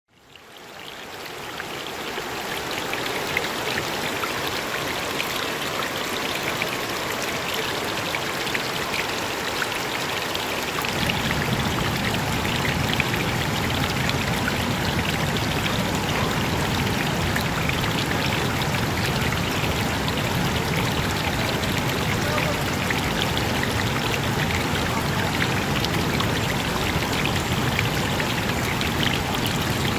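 Stream water running with a steady rush. It fades in at the start, and about eleven seconds in it turns deeper and fuller.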